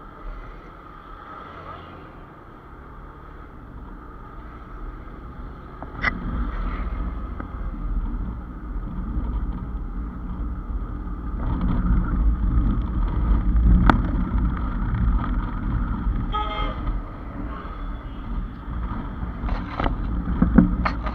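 Highway traffic heard from a moving motorcycle: a low engine and road rumble that grows louder from about six seconds in, with a couple of sharp knocks and a brief vehicle horn honk partway through.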